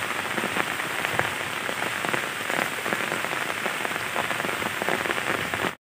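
Heavy rain falling on wet grass and weeds: a steady hiss with scattered drop ticks. The sound cuts off abruptly near the end.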